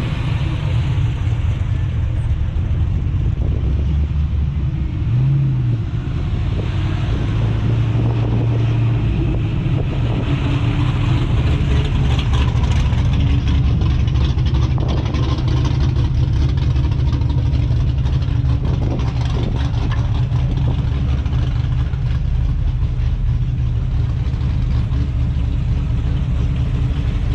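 A car engine running close by with a deep, steady low rumble, with a brief rev about five seconds in.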